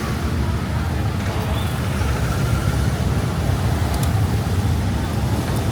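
Steady road traffic: a constant low rumble of passing vehicles.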